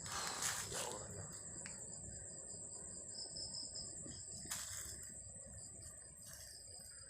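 Crickets chirring steadily, one high continuous trill with a second, pulsing call below it, and a few brief knocks or rustles near the start and about four and a half seconds in.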